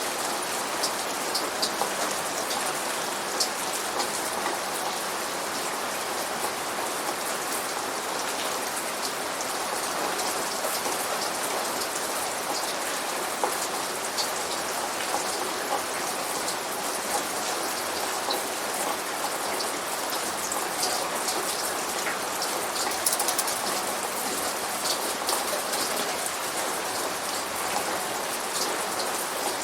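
Steady rain falling, with many individual drops landing close by as sharp ticks over the even hiss; no thunder.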